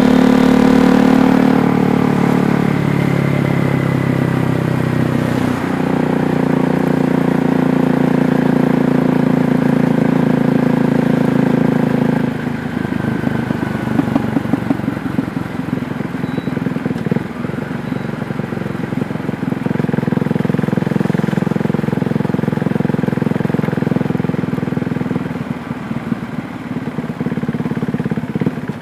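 KTM Duke 390's single-cylinder engine running under way. Its note holds steady, then changes speed several times: it drops about a second and a half in, rises again around six seconds, falls to a rougher, quieter running around twelve seconds, and picks up again around twenty seconds.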